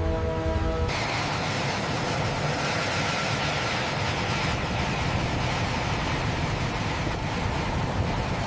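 Background music cuts off about a second in, replaced by a steady, even machine-like rushing noise.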